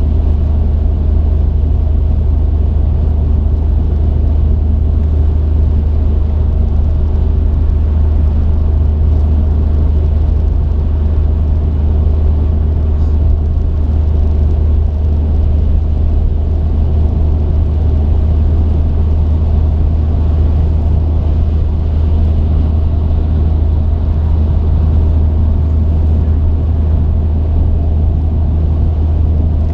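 Steady low drone of a truck driving, engine and road noise heard from inside the cab.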